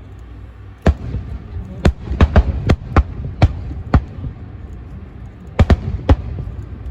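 Fireworks going off: a string of about eight sharp bangs in the first four seconds, then three more near the end.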